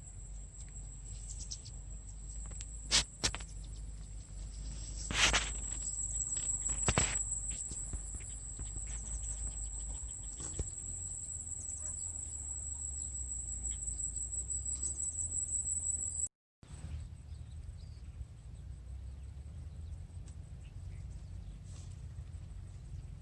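Insects trilling in a steady high-pitched chorus over a low outdoor rumble, with a few sharp knocks in the first seven seconds. The sound cuts out completely for a moment about 16 seconds in, then the trill carries on fainter.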